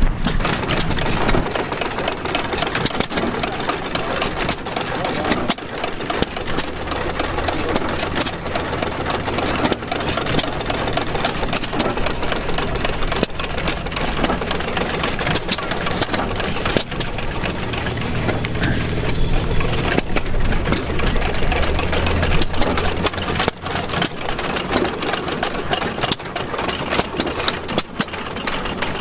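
Antique gas engine running with a rapid, steady clatter of clicks; a low steady hum joins in through the middle stretch.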